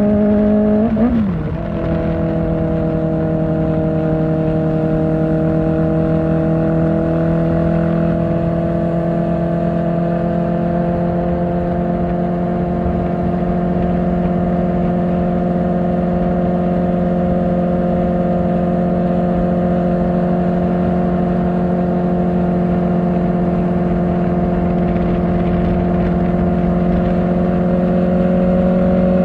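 Kawasaki Ninja ZX-4R's 399 cc inline-four through an Akrapovic exhaust, riding at steady high revs. It shifts up about a second in, with a quick dip in pitch, then holds an even note that climbs slightly near the end.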